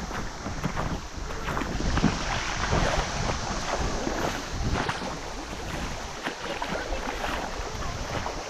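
River water splashing and sloshing in irregular bursts, as in shallow water, with gusts of wind rumbling on the microphone.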